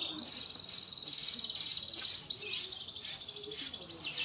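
Murai batu (white-rumped shama) singing: a continuous run of rapid, high-pitched trills that changes pattern about two seconds in.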